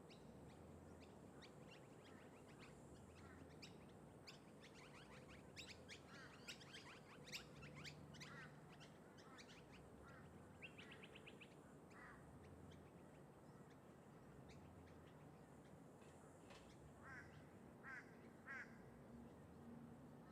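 Faint birds calling: a flurry of short, quick calls in the first half and three more calls near the end, over a steady low hum of distant traffic.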